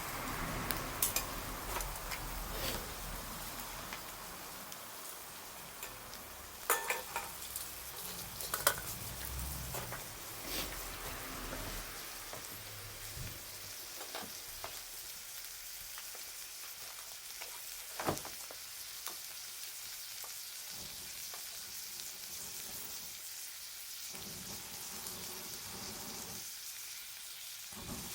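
Wood fire crackling: a steady hiss with scattered sharp pops, a few of them louder, one standing out about 18 seconds in.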